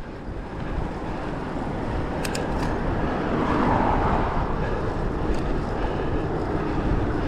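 Rushing wind and tyre noise from a bicycle being ridden, swelling to its loudest about four seconds in.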